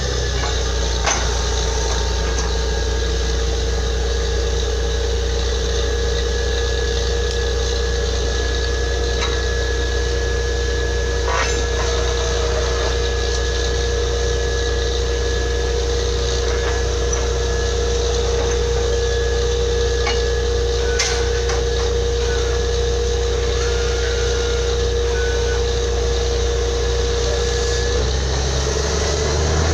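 Borewell drilling rig's engine running steadily under a heavy low rumble, with a constant whine and a few sharp knocks about one, eleven and twenty-one seconds in.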